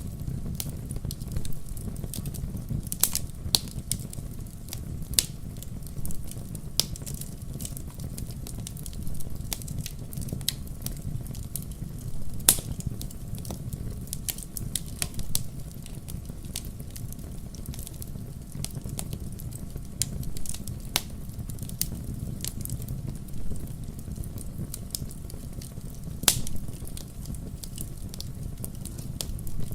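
Wood fire in a fireplace crackling: irregular sharp pops and snaps over a low, steady rumble of the flames. The loudest pops come about twelve seconds in and near the end.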